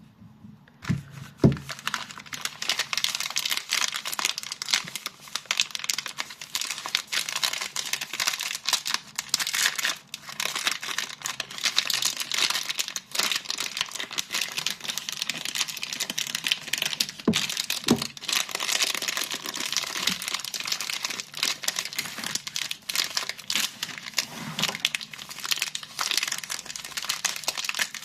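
Soap wrapping being unpacked by hand: continuous crinkling and tearing of the packaging. It starts about a second in, with a few soft knocks along the way.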